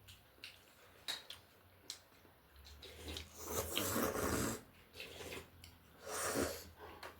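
Close-miked eating sounds of a person eating noodle soup: a few small mouth clicks, then two long noisy slurps, the first lasting about a second and a half.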